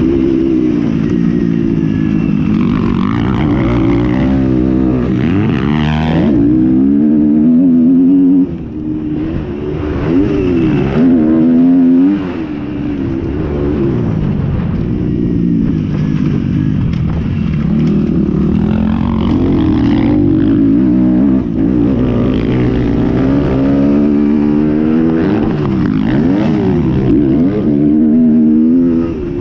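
Several motocross bikes racing, their engines revving up and down in pitch through gear changes and passing one after another.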